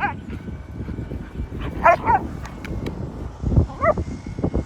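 A dog barking in short, high yips, about four times: one at the start, two close together about two seconds in, and one near the end. Low rumbling noise runs underneath, with two heavy thumps near the end.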